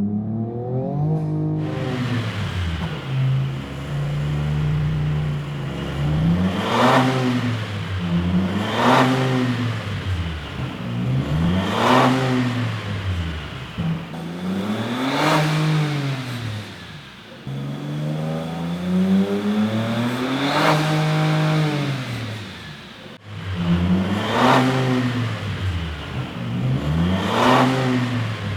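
Ford Ranger Raptor's twin-turbo V6 revved over and over under light load, the note climbing to a peak and dropping back each time, heard through an aftermarket mid-pipe exhaust with its valves in Baja mode.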